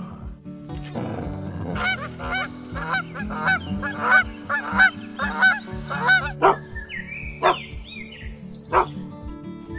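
Geese honking in a quick run of about eight honks, then a few sharper single calls, over soft background music.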